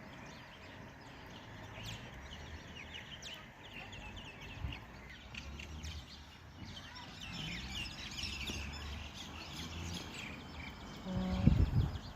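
Birds chirping in many short high calls, thickest in the middle, over a faint low background rumble. A loud low thump comes near the end.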